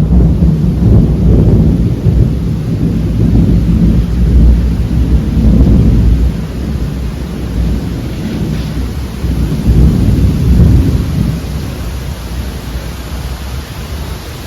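Thunderstorm: steady rain hissing under long, low rolling rumbles of thunder, loudest through the first half and swelling again about ten seconds in.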